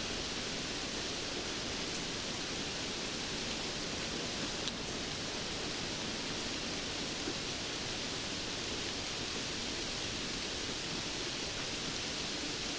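Steady rainfall: an even hiss of rain with a few faint scattered drop ticks.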